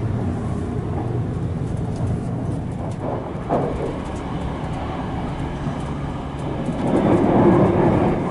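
Running noise of a 787 series electric train heard from inside a compartment: a steady rumble of wheels on the track. There is a single knock about three and a half seconds in, and the rumble swells louder near the end.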